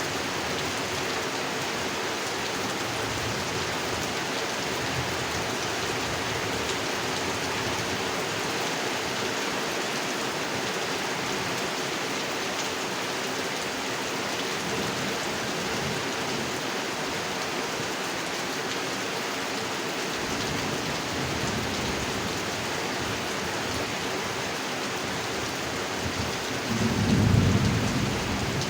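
Steady rain falling on a pond, with a low rumble of thunder swelling near the end.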